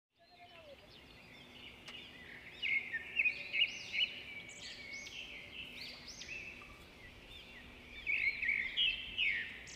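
Birds chirping and calling in quick runs of short arching notes. They are loudest about a quarter of the way in and again near the end.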